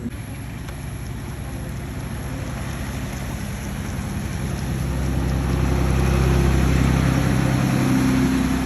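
A truck engine's low, steady hum that swells louder from about halfway through and eases slightly near the end.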